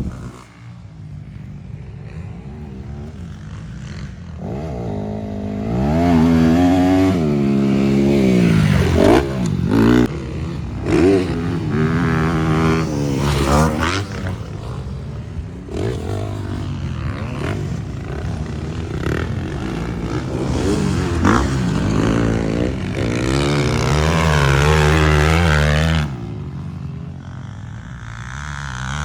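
Motocross dirt bike engines revving hard, the pitch repeatedly climbing and falling with the throttle and gear changes. The engines are quieter at first, louder for long stretches, and drop away suddenly near the end.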